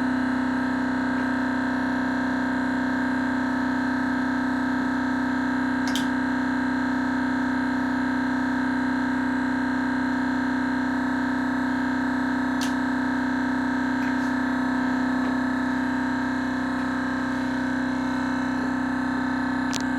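Thermoacoustic engine running, giving a loud, steady, unwavering hum at one low pitch with fainter higher tones over it, and a few faint clicks.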